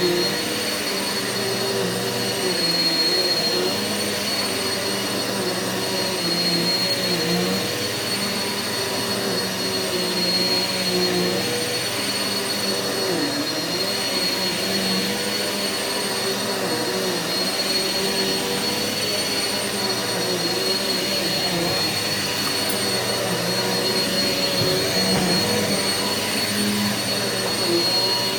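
Eureka vacuum cleaner running continuously while vacuuming carpet, with a steady high whine over a lower hum that wavers.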